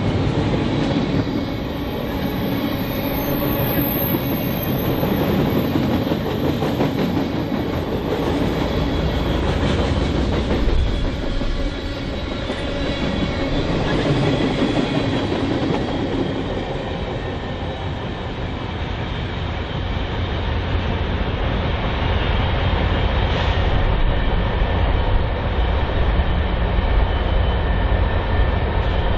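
Freight train cars rolling past close by, a steady rumble of wheels with clickety-clack over the rail joints. A diesel locomotive's engine drone builds underneath in the last third as a second train approaches.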